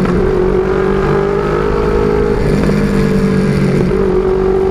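Motorcycle engine running at a steady speed, with a slight shift in its pitch about halfway through.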